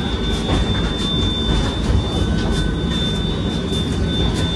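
Steady rumble and rattle of the Howrah–Puri Shatabdi Express running, heard from inside the vestibule between coaches, with a thin, steady high-pitched whine over it.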